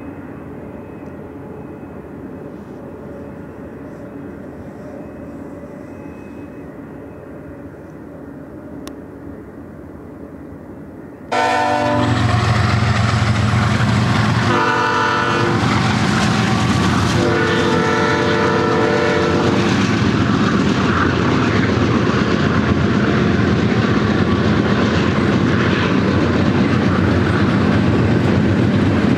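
A faint rumble of a freight train moving away. Then, suddenly much louder, a BNSF ET44C4 diesel locomotive sounds its horn in three blasts at close range as it reaches a grade crossing. The long steady rumble and clickety-clack of loaded double-stack intermodal well cars rolling past follows.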